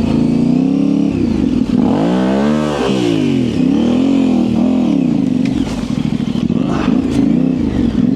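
Yamaha Ténéré 700's parallel-twin engine running at low revs through an aftermarket high exhaust, its pitch rising and falling repeatedly with the throttle as the bike is manoeuvred slowly. There is one sharper rev up and back down about two to three seconds in.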